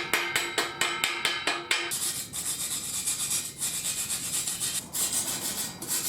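Mortar being worked on brickwork with a trowel: a quick run of light taps, about five a second, for the first two seconds, then steady scraping and rubbing as the mortar joints are smoothed.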